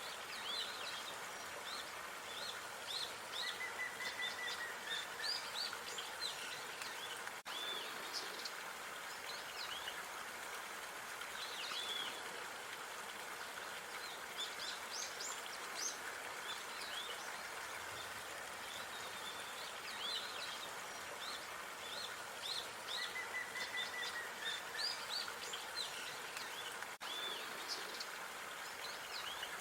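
Park ambience of small songbirds chirping and trilling in quick runs of short high notes over a steady background hiss, with a longer whistled note twice. The recording repeats about every 20 seconds, with a brief dropout at each loop point.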